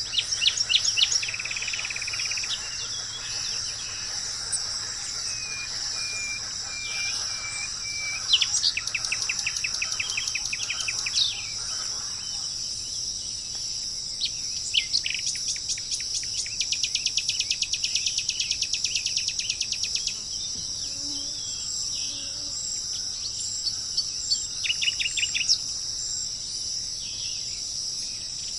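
Wild birds calling over a steady high-pitched drone of insects. The bird calls come in runs of quick repeated notes, with a long rapid run in the middle and shorter runs near the start and end.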